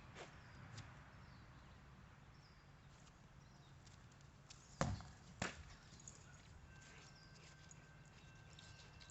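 Two sharp thumps about half a second apart near the middle, like a ball striking a wall, with a few faint ticks around them.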